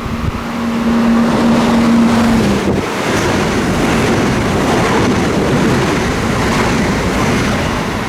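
A train passing close by at speed, with a loud steady rush of wheels on rail and wind. A steady low tone is held for the first two and a half seconds, then stops.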